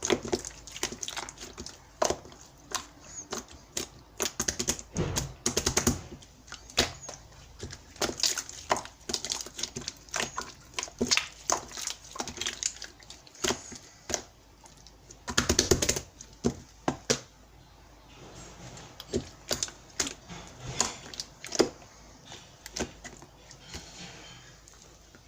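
Clear slime squeezed and pressed by hand, giving rapid, irregular sticky clicks and pops in dense clusters, thinning out near the end.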